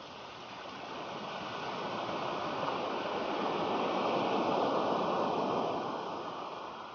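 Sea surf rushing onto the beach as a wave comes in: a rising rush that peaks about four to five seconds in, then fades away.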